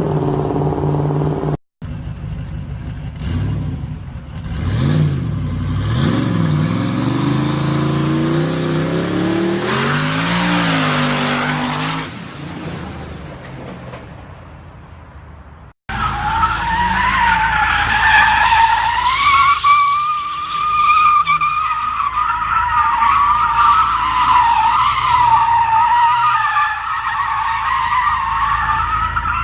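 Car engines revving, the pitch rising and falling several times, with a high whine climbing about ten seconds in. After a cut about halfway through, a long wavering tire squeal.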